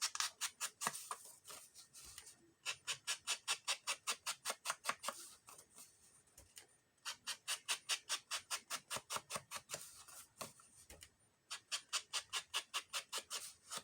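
Ink applicator rubbed over paper edges in quick scratchy back-and-forth strokes, about five a second, in four spells with short pauses between them.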